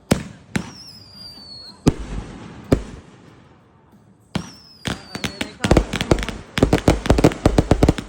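Fireworks going off. In the first few seconds there are a few sharp bangs and a high whistle falling in pitch. Another falling whistle comes about four and a half seconds in, and then a rapid crackling volley of many bangs runs through the last couple of seconds.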